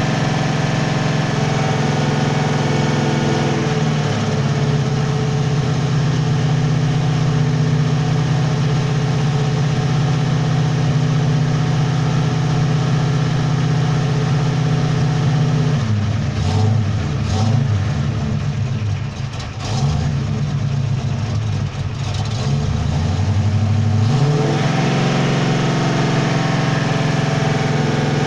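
Modified Ford 351 Cleveland V8 with a 400 cam running at a steady fast idle. About halfway through, the engine speed drops into a rough, uneven idle for several seconds, then picks back up to a steady speed near the end.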